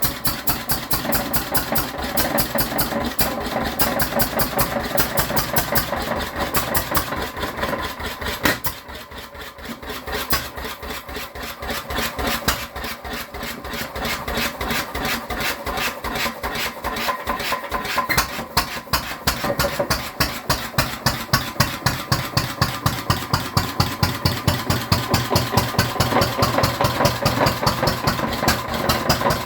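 Lister MH 5 hp stationary engine running, its firing strokes heard as a steady, even beat. It dips briefly quieter about nine seconds in.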